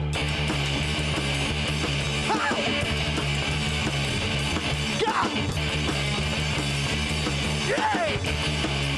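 Guitar-driven rock music, an instrumental passage with no singing, with a falling sliding sweep about every three seconds.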